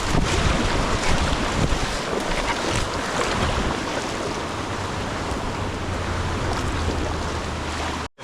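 Rushing river rapids with wind buffeting the microphone, a loud steady roar of water that cuts off suddenly near the end.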